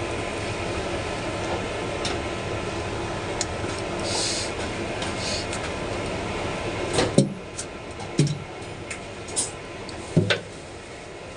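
A machine running with a steady, noisy hum that drops away about seven seconds in, followed by a few sharp knocks.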